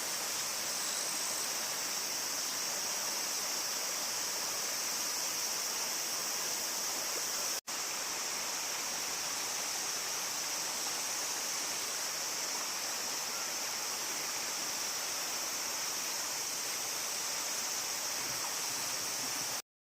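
Steady rush of river water, with a steady high-pitched hiss over it. There is a momentary break a little over a third of the way through.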